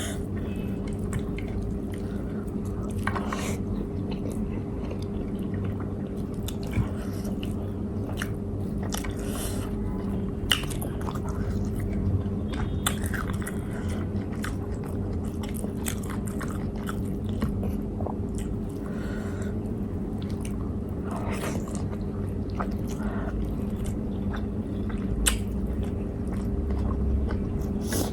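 Close-miked eating: a person chewing and biting food, with scattered short clicks and wet mouth sounds. A steady low hum runs underneath.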